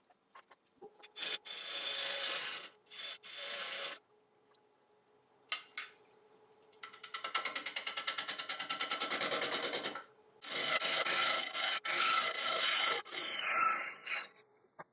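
Turning tool cutting a spinning Iroko blank on a wood lathe: three long rasping passes, the middle one with a fast, even flutter as the tool meets the turning wood, over the lathe motor's faint steady whine.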